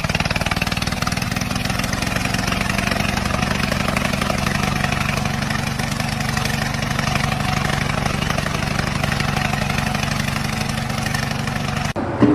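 An engine running steadily at constant speed, with a rapid even pulsing, cutting off abruptly near the end.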